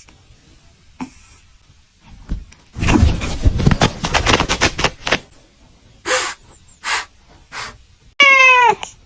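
A rustling, scuffling noise for a couple of seconds, then three short breathy puffs, then one loud meow from a kitten near the end, falling in pitch.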